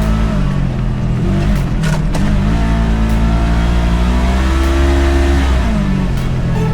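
Side-by-side engine running under load, its pitch dropping and rising several times as the throttle changes. There are a couple of sharp knocks about two seconds in.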